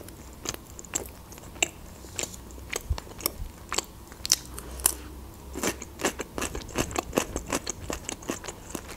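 Close-miked chewing of a salmon and cream-cheese open sandwich on bread. Many sharp, wet clicks and crunches come several a second, thicker in the second half.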